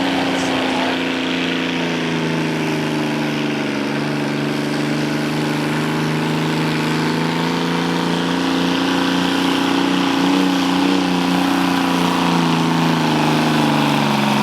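Naturally aspirated pulling tractor's engine running at full throttle under load while dragging the pulling sled. Its pitch sags a few seconds in, climbs back, and drops again near the end as the sled bears down.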